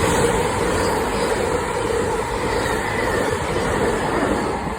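Passenger train passing close by at speed, a loud, steady rush of wheel and rail noise that begins to fade near the end.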